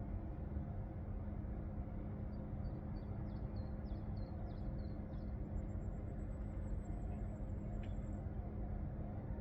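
Outdoor ambience: a steady low rumble with a constant hum under it, and a few faint high chirps a couple of seconds in.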